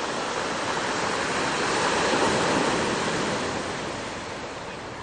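Ocean wave breaking and washing up the shore, a rushing surge that builds to a peak about two seconds in and then fades away.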